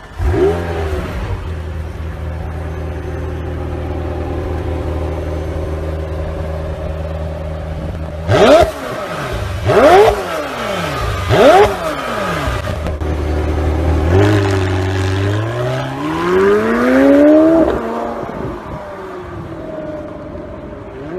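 McLaren supercar engine firing up with a quick flare and settling into a steady idle. It is then blipped sharply three times, each rev rising and falling quickly. Later it climbs steadily in pitch for a couple of seconds as it accelerates, then drops back.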